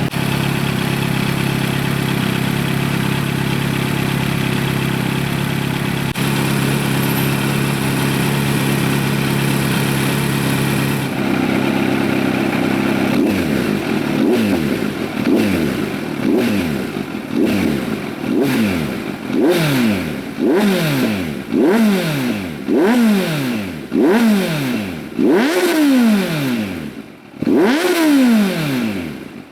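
Kawasaki Z900's inline-four engine, breathing through a custom stainless link pipe and a generic aftermarket muffler with the catalytic converter removed, idling steadily, then, about halfway through, blipped in quick repeated revs, roughly one a second. Each rev rises and drops straight back, and they climb higher toward the end.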